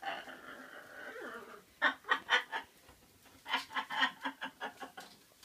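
Pet bird calling: one drawn-out call, then two runs of short, rapid notes, several a second.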